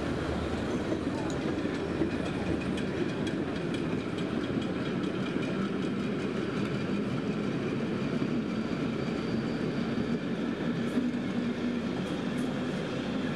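Narrow-gauge train of a vintage electric railcar and old coaches running past and pulling away at low speed, a steady rumble with light clicks of the wheels over the track.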